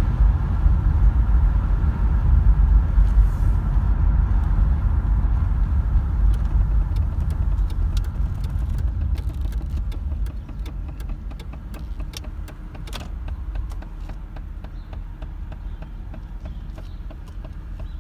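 Holden VZ Commodore Berlina engine idling with a rapid, regular knock, about three to four ticks a second. This is the knock at idle the owner is showing as a fault. A heavy low rumble in the first half eases off about ten seconds in.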